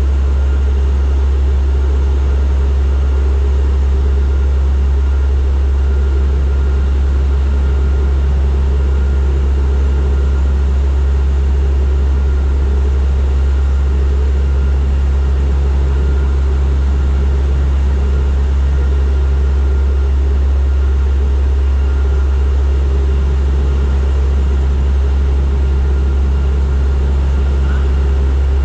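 Turboprop airliner in flight, its propellers and engines making a loud, steady low drone with a faint whine above it that does not change.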